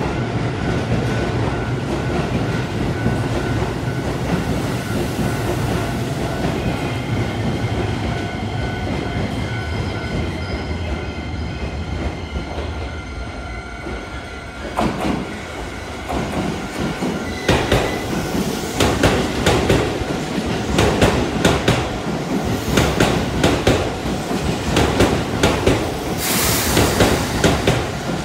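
Keisei electric commuter train coming through a station without stopping. A steady rumble as it approaches gives way, from a little past halfway, to rhythmic wheel clatter over the rail joints as the cars pass close by.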